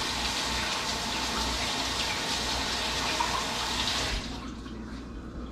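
Kitchen sink faucet running steadily as hands are washed under it, shut off about four seconds in.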